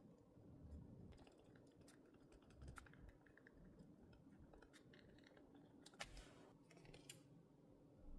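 Faint scattered light clicks and taps of stationery being handled on a desk during journaling, with a short rustle about six seconds in.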